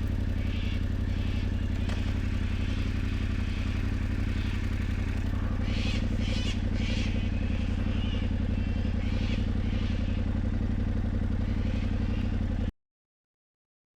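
Yamaha Ténéré 700's parallel-twin engine running steadily as the motorcycle rides along a dirt track. The sound cuts off abruptly near the end.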